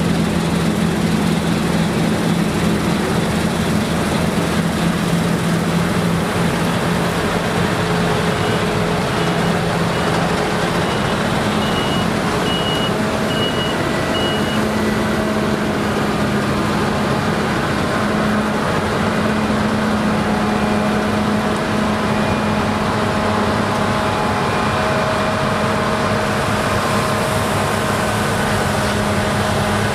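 Claas Lexion combine harvesters working in rye: a steady, loud engine and machine noise, its engine note stepping up about halfway through. A run of short, high, evenly spaced beeps sounds for several seconds about a third of the way in.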